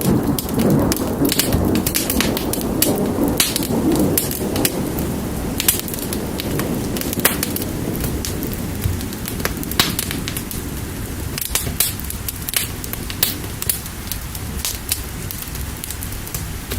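Wood fire crackling with scattered sharp pops over steady rain. A low thunder rumble in the first few seconds fades away.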